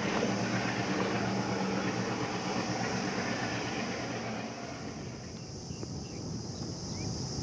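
Diesel-hauled passenger train running away on the rails, the rumble and rattle of its coach wheels fading over the first five seconds, leaving a quieter steady hiss.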